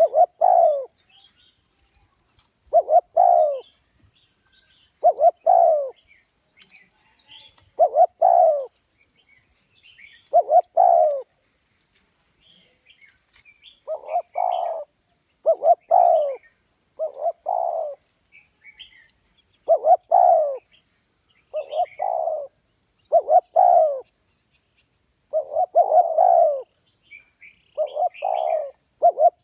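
Spotted dove cooing over and over: a low coo that falls in pitch, about every two to three seconds at first, then in runs of two or three notes from about halfway on. Faint, higher chirps of small birds sound between the coos.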